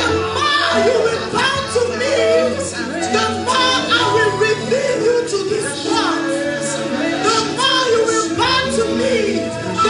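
Live worship music: a band playing over sustained bass notes, with a woman's voice singing.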